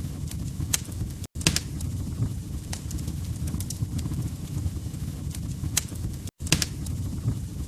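Log fire crackling: a steady low rumble of flames with sharp pops and snaps scattered irregularly through it. The sound cuts out to silence for an instant twice, a little over a second in and again about six seconds in.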